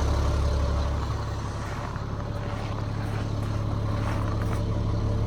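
Diesel engine of a 2006 Peterbilt 335 medium-duty truck idling with a steady low hum.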